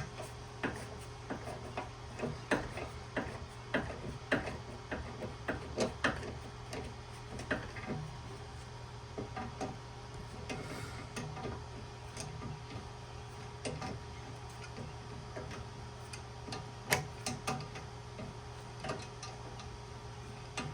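Irregular light clicks and knocks of small metal scrap parts being handled. They come about one or two a second at first, then more sparsely, over a steady low hum.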